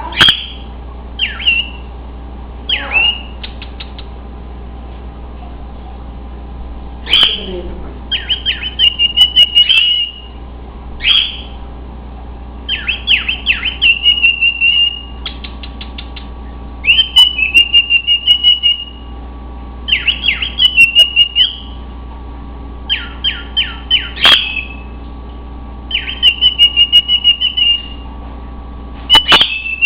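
Cockatiel whistle-singing: repeated groups of short, high whistled notes, some strung into quick chattering runs, with sharp squawk-like starts and pauses of a few seconds between groups.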